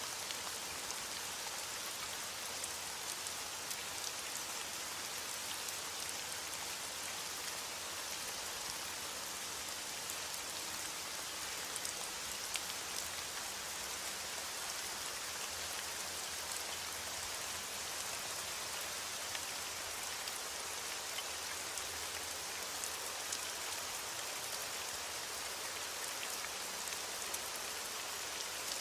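Heavy rain on a window pane: a steady hiss, with scattered small ticks all through.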